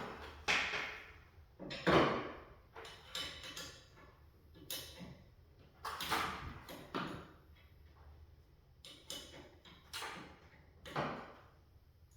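A series of sharp metallic clanks and knocks from garage door hardware being worked on, about one a second, each ringing briefly.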